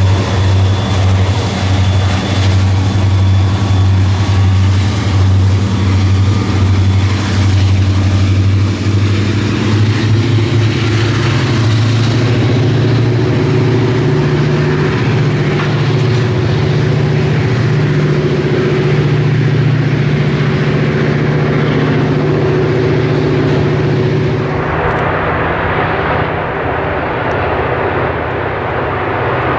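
Freight train of covered hopper cars rolling past: steady rumble and clatter of steel wheels on the rails over a low drone that rises slightly in pitch about halfway through. About 25 seconds in it cuts to the duller rumble of a distant diesel-hauled train approaching.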